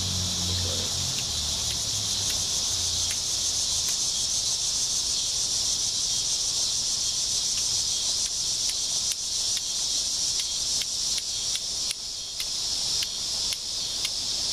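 Flint striking a steel fire striker: sharp clicks, scattered at first, then coming quickly and irregularly in the second half as sparks are thrown. Under them runs a steady high-pitched drone of insects.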